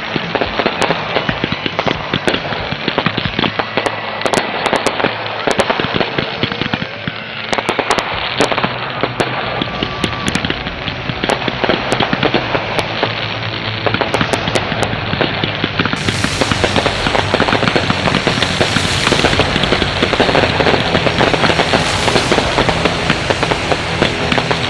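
Consumer fireworks going off in a dense, continuous run of crackling and popping from firework cakes and shells, with music playing underneath.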